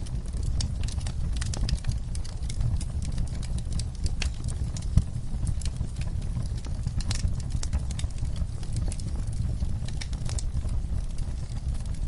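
Campfire crackling: a constant scatter of small, irregular pops over a steady low rumble, with one louder pop about five seconds in.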